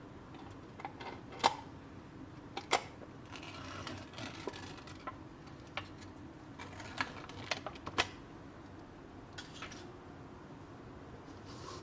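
Small objects being handled: scattered light clicks and taps at irregular moments, the sharpest about a second and a half in and again around eight seconds.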